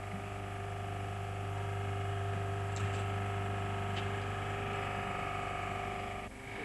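Steady machine hum of a strength-testing rig loading a prefabricated bamboo-reinforced concrete slab, with a couple of faint ticks. The hum drops away just before the end.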